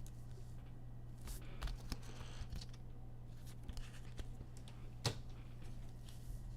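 Trading cards being handled and flipped through: soft scattered rustles and clicks, with one sharper click about five seconds in, over a faint steady electrical hum.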